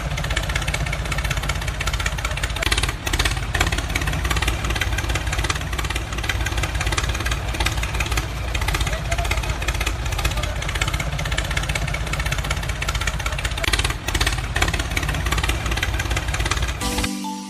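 An engine-like motor running steadily, with voices over it. Near the end it cuts off and music with separate pitched notes begins.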